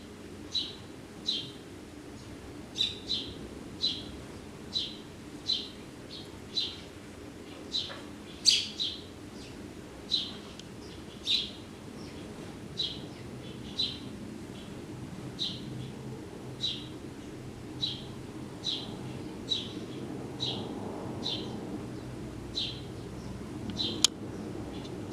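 A small bird repeating short, sharp chirps, a little more than one a second, with one louder call about a third of the way through, over a steady low background rumble.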